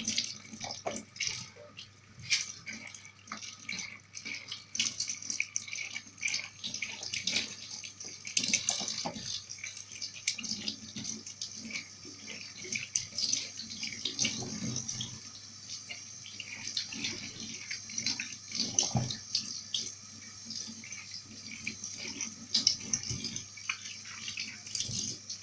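Kitchen tap running into a sink as tomatoes are washed and rubbed by hand, with a steady hiss of water and irregular splashes and knocks.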